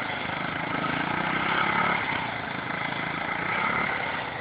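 Small dirt bike engine running steadily.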